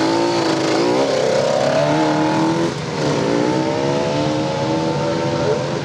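Motorcycle engine running hard under acceleration: its note climbs, drops sharply about three seconds in, then climbs again.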